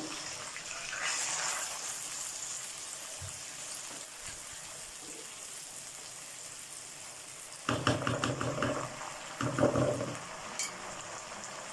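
Browned onions sizzling and bubbling in hot oil with a little added water in a non-stick wok, a steady hiss. From about two-thirds of the way through, a spatula stirs the pan in short, louder bursts.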